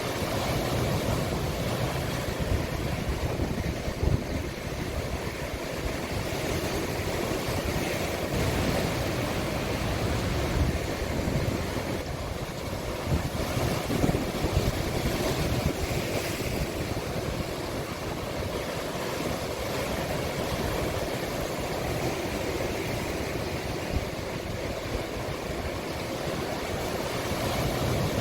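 Sea waves washing and breaking on the shore of a small cove, a continuous surf with irregular low thumps, and wind on the microphone.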